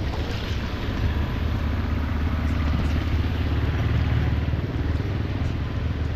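Steady rain hiss over a continuous low rumble.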